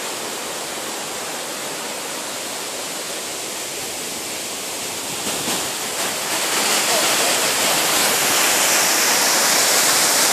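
Waterfall: a steady rush of falling water, getting louder and brighter a little past halfway.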